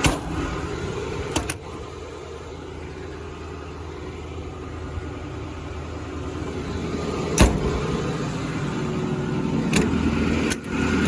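2008 Ford F-450's 6.4L Powerstroke diesel idling steadily, with several sharp knocks over it, the loudest about seven seconds in.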